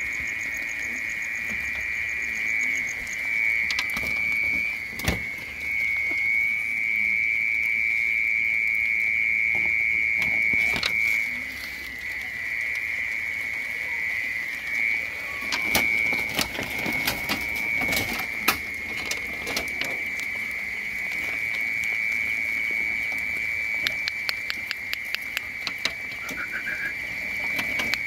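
Steady high-pitched chorus of small calling animals such as frogs or insects, going on without a break. Scattered sharp clicks and taps cut across it, and a run of quick, even ticks comes near the end.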